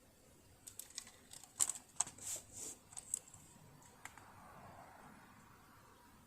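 Small hard clicks and short scrapes of tools and parts being handled on a partly dismantled sewing machine, then a single knock about four seconds in that rings on and fades.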